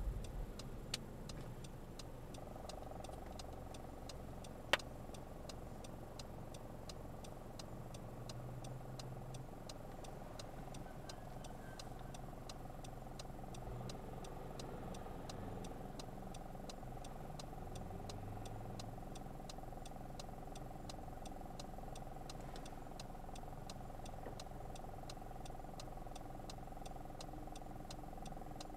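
A car idling at a standstill, heard from inside the cabin: a low steady engine hum with a faint steady whine. Over it runs a regular light ticking, about two and a half ticks a second, that stops about three-quarters of the way through, and there is one sharp click about five seconds in.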